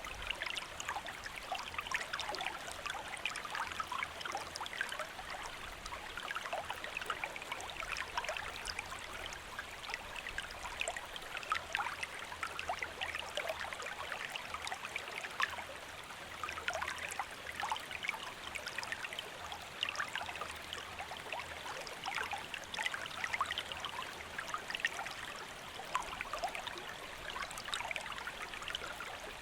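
A small river or stream running steadily over stones, a continuous rush of water dense with small splashes and trickles.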